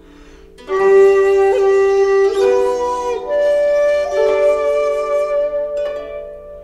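Background music led by a flute playing slow held notes, starting about half a second in and fading near the end.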